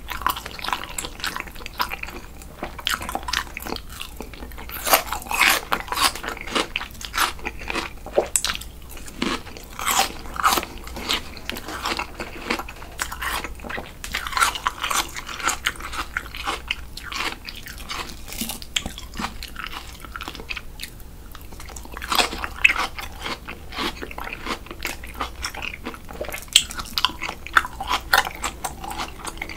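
Close-miked eating sounds: a person biting and chewing crisp raw sliced onion, a run of sharp crunches with a few short pauses.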